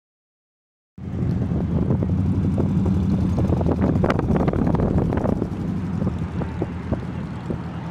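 Audio cuts in abruptly about a second in on a steady engine running, with wind buffeting the microphone and scattered knocks and rustles.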